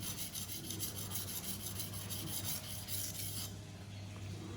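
Stainless steel chef knife tip being ground on a coarse Naniwa 320-grit water stone: rapid short strokes of steel scraping across the wet stone, stopping about three and a half seconds in.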